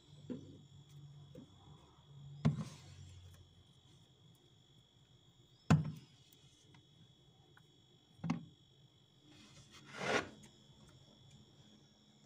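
Household items handled while clearing a cupboard: three sharp knocks of things being set down, a few seconds apart, and a brief brushing rustle near the end, over a faint steady high-pitched whine.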